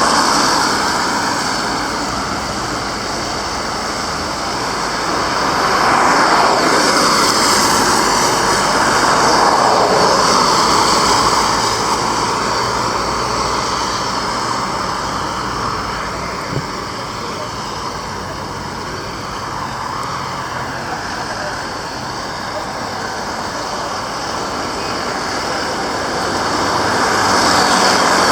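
Road traffic noise with vehicles passing, swelling louder and fading a few times.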